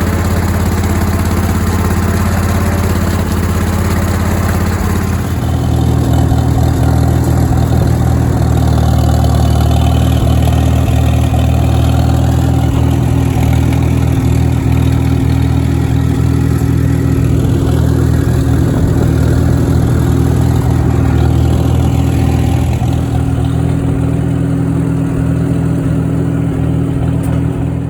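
An engine of heavy farm machinery running steadily close by. About five seconds in it moves up to a higher speed and holds there.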